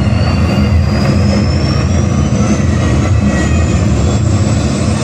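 Loud, steady jet-like roar of a spacecraft launch sound effect, with a thin whine slowly rising in pitch above it.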